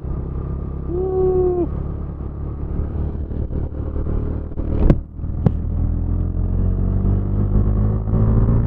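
Motorcycle engine running under way, with two sharp knocks about half a second apart midway, a brief pitched tone about a second in, and the engine note rising as it accelerates near the end.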